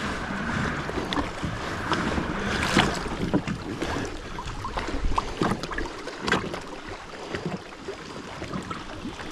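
Kayak on the water with small knocks and clicks against the hull and gear, and wind on the microphone.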